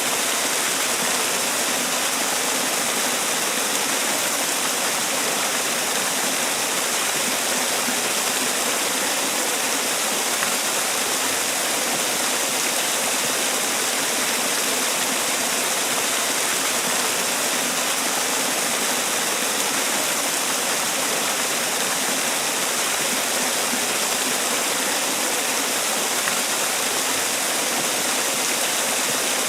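Man-made waterfall: water falling and splashing in a steady, even rush, with no change throughout.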